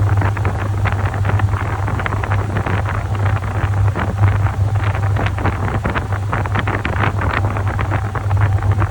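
Top-loading washing machine running, its motor humming steadily under water and laundry churning and splashing in the drum.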